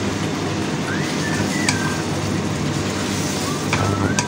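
Sliced pork and vegetables sizzling in hot oil in a pan as they are stir-fried, with a few short scrapes and clicks of the spatula against the pan over a steady low hum.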